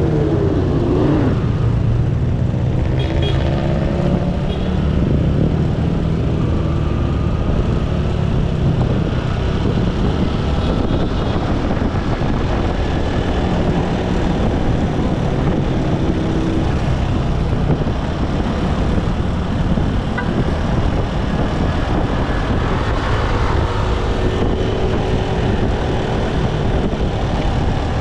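Motorcycle engine running on the road, with steady road and wind rumble and passing traffic. About a second in, a pitch falls sharply.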